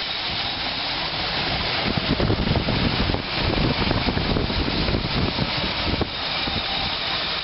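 GMC 366 gasoline V8 of a school bus running at a somewhat high idle on a freshly rebuilt carburettor. It gets a little louder about a second and a half in and drops back about six seconds in.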